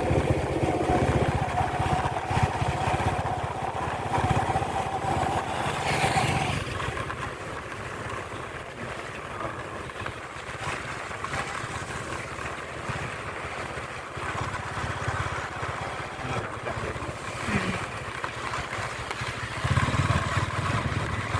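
A motorbike running steadily while being ridden: a continuous low rumble. A steady tone sounds over it for roughly the first six seconds and then stops.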